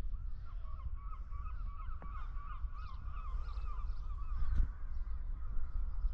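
A flock of birds calling, many short overlapping calls in a rapid chatter that swells for a few seconds and then thins out, over a low rumble of wind and traffic.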